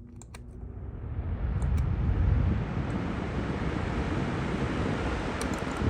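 Utilitech box fan switched on with a click, its rushing air building over about two seconds and then running steadily.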